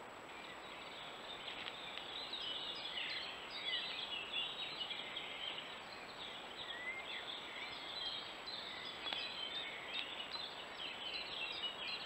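Birds calling: a busy, irregular chatter of short high chirps with brief downward pitch slides, over a steady background hiss.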